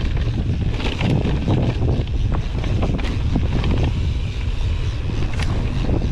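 Strong wind buffeting the camera microphone in a loud low rumble, mixed with irregular knocks and rattles from a mountain bike riding over rough ground.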